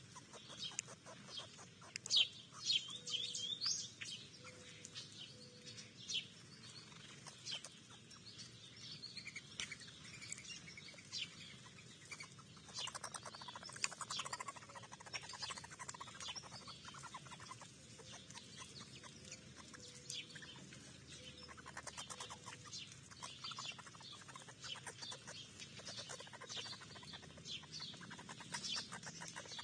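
Small songbirds chirping and calling at a backyard feeder, with many short high chirps one after another throughout. A few faint low notes come in twice, and a soft rushing swell comes in about halfway.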